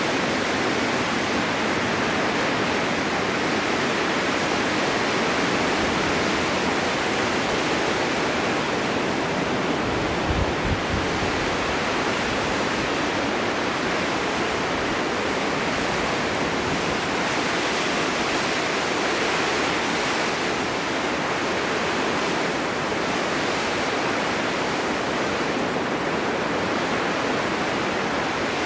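Snowstorm wind blowing in a steady, dense rush. About ten seconds in, a short low rumble, as of a gust buffeting the microphone.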